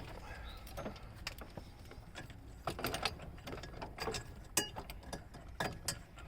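Scattered light metallic clicks, clinks and knocks of car parts and tools being handled, irregularly spaced, with the sharpest knock about four and a half seconds in.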